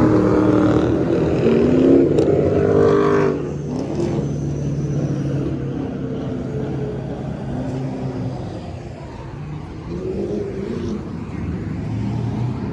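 A car engine revving hard, its pitch sweeping up and down, loudest for about the first three seconds, then dropping suddenly to a lower level with smaller rises in revs.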